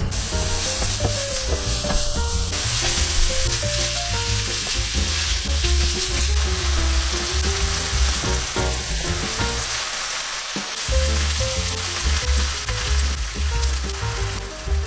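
Food sizzling steadily in a hot frying pan, with background music playing over it.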